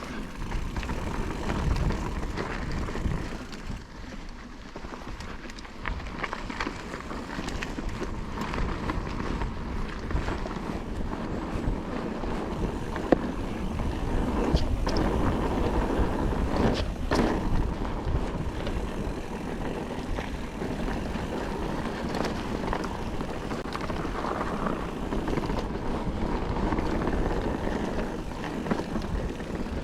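Calibre Triple B mountain bike riding a dry, loose dirt trail: tyres rolling and skittering over loose ground and the bike rattling over bumps, with sharper knocks now and then. Wind rushes over the microphone.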